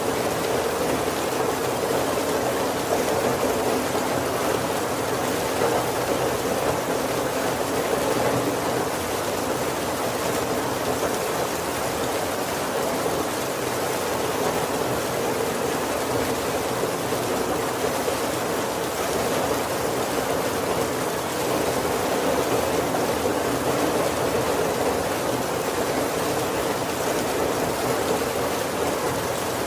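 Heavy rain falling steadily on a roof, an even, unbroken hiss with no thunder.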